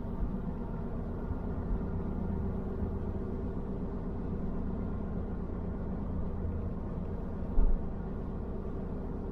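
Steady engine and road hum of a car being driven, heard inside the car, with a short low thump about seven and a half seconds in.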